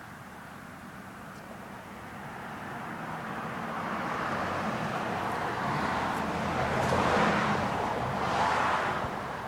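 Road traffic: the tyre and engine noise of passing vehicles swells gradually, peaking twice near the end as they go by, then fades.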